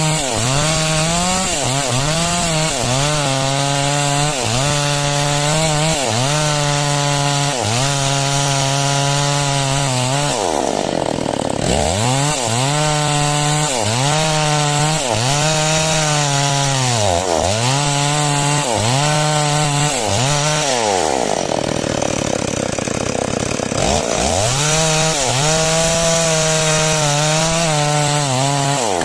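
Chainsaw running hard while cutting timber into a beam. Its pitch sags and recovers about once a second, and twice, about a third and three quarters of the way through, it falls toward idle for a second or two before revving back up.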